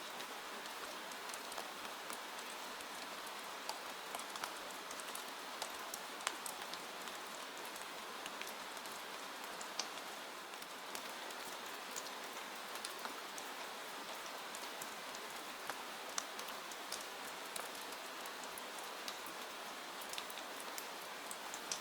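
Steady rain falling, an even hiss with many scattered sharp ticks of drops and crackles through it.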